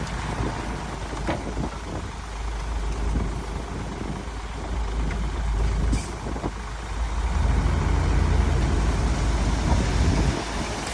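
Diesel engine of heavy earthmoving machinery running with a low rumble, growing louder for a few seconds from about seven and a half seconds in. A short sharp click about six seconds in.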